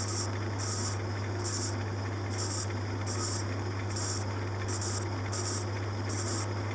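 A workshop machine running with a steady low hum, overlaid by a short high hiss that repeats about once a second.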